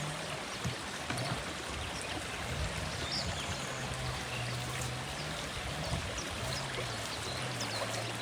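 Flowing water rushing steadily, like a small mountain stream, with a few faint bird chirps and a low hum that shifts pitch a few times.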